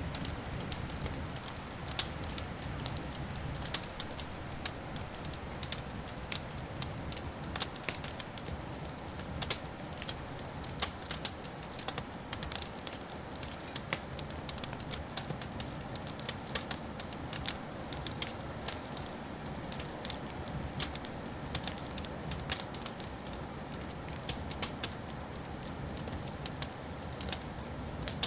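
Wood fire crackling, with irregular sharp pops and snaps over a steady hiss. A low rumble runs underneath and is heaviest in the first few seconds.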